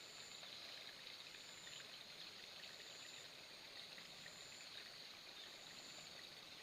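Near silence outdoors: a faint steady hiss of running water, with a faint high-pitched tone repeating in short pulses about every second and a half.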